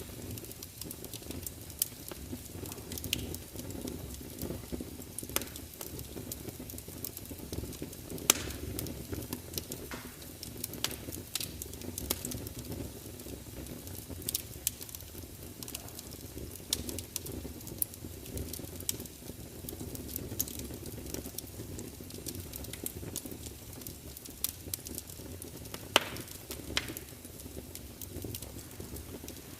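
Wood fire burning in a large fireplace: a steady low rumble with irregular crackles and sharp pops of the logs, the loudest pops about eight seconds in and again near the end.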